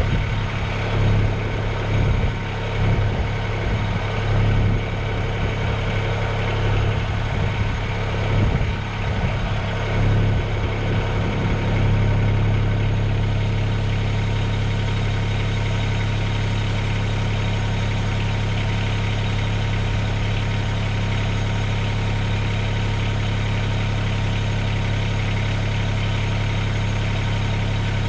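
Mahindra eMax 20S HST tractor's diesel engine running, uneven with surges in loudness for roughly the first twelve seconds, then settling to a steady idle.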